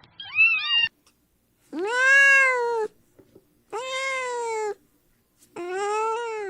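Cat meowing: a few short, higher mews in the first second, then three long drawn-out meows of about a second each, each rising and falling in pitch.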